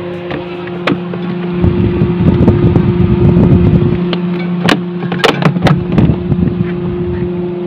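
Two-door refrigerator running after its dead control module was bypassed with jumper wires: a steady hum from the compressor and fan. A low rumbling noise swells for a couple of seconds starting about one and a half seconds in, and several sharp clicks and knocks come around the middle.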